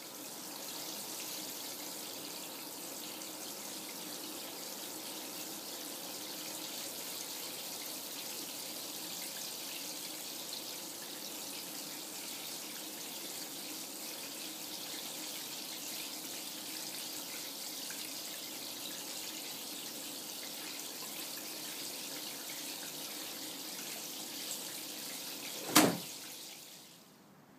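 Water running steadily, like a tap or a steady pour, with one sharp knock near the end.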